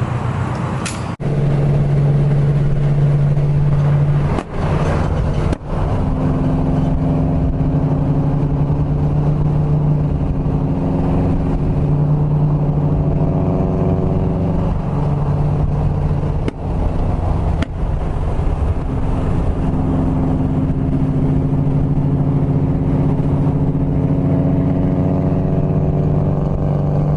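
Car engine and exhaust droning steadily while driving, a low even hum that shifts a little in pitch now and then. It breaks off sharply a few times.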